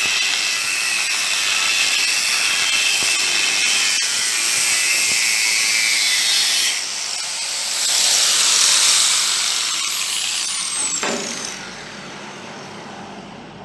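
Handheld power saw cutting through steel with a loud, steady, high hiss. Around nine seconds in the blade spins down with a falling whine and the sound fades away.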